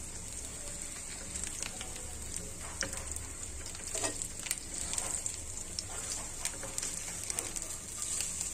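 Marinated chicken pieces frying in hot mustard oil on a flat tawa: a steady sizzle with fine scattered crackles. Several sharper crackles and clicks come in the middle as the pieces are turned over.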